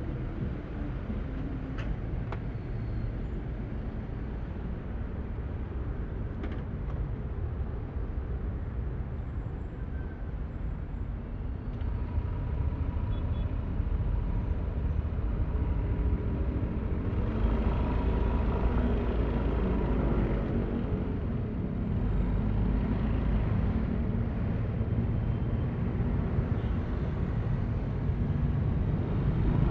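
Yamaha Aerox V3 scooter's single-cylinder engine running while riding, with road noise, growing louder about halfway through as it picks up speed.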